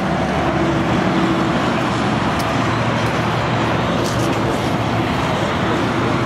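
Many motorcycle engines running together, a steady dense mix of engine noise with a few held low tones.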